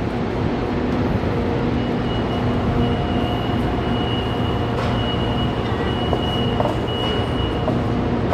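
SRT high-speed train running with a steady rumble and low hum, with a thin high whine held for about six seconds in the middle.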